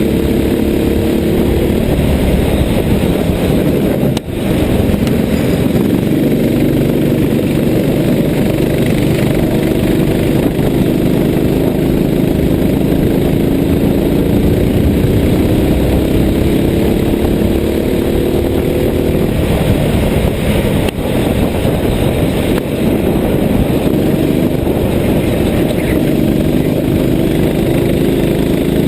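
A vehicle engine running under way, its pitch climbing slowly for several seconds and then falling back, as when pulling through the gears. There are two short breaks in the sound, one early and one about two-thirds of the way through.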